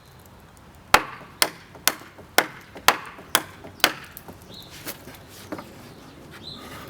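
Railroad-spike knife chopping into a piece of hardwood, seven sharp strokes at about two a second, then two lighter ones.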